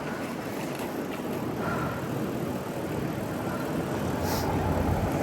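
Street traffic and wind on the microphone from a moving bicycle, with a motor vehicle growing louder toward the end and a brief hiss about four seconds in.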